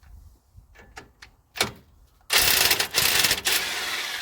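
Electric impact wrench hammering on the castle nut of a truck's tie rod end. It starts suddenly about two seconds in, after a few light clicks, and is loudest for about a second before running on a little lower.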